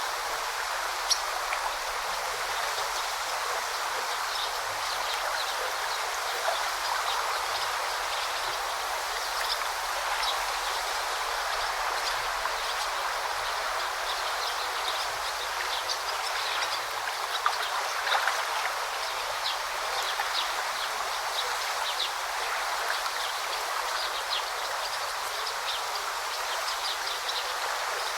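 Stream water flowing steadily, with small birds giving short, high chirps over it again and again.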